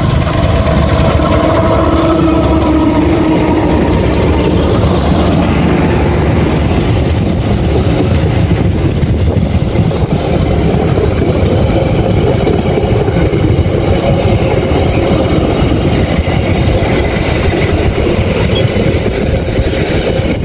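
Indonesian diesel-hauled passenger train, the Bandung Raya economy local, passing close by. The locomotive's engine goes past in the first seconds, then a long rake of coaches rolls by with a steady loud rumble of wheels on rail.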